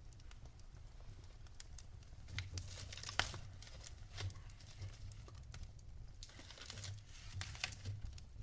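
Wood fire crackling in a fireplace: a stream of small sharp pops and snaps over a low steady rumble, with a louder snap about three seconds in.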